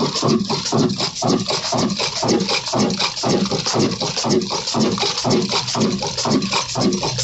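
Old black diesel engine running steadily, its exhaust beating evenly at about four beats a second.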